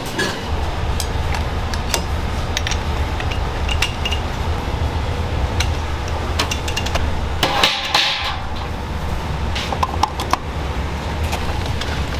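Kitchen work: irregular clinks and knocks of metal utensils and dishes over a steady low hum, with a brief rushing burst about eight seconds in.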